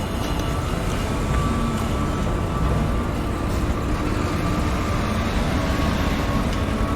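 Construction-site machinery running: a steady, dense low rumble of heavy engines with a thin, steady high whine over it.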